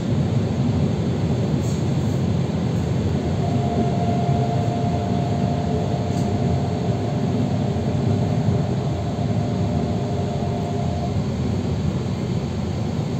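Electric commuter train running, heard from inside the carriage: a steady rumble of wheels on rails. A thin steady whine comes in about three seconds in and stops a couple of seconds before the end.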